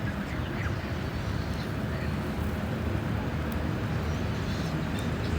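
Geese calling faintly now and then over a steady low rumble.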